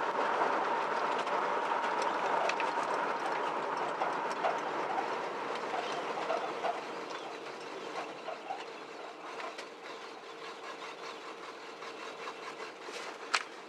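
1976 Pontiac Firebird Formula running warm, at operating temperature, on a drive. Engine and road noise with light clicking and rattling throughout, gradually getting quieter.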